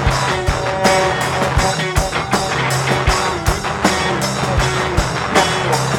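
Live rock band playing an instrumental passage: guitar over bass with a steady drumbeat.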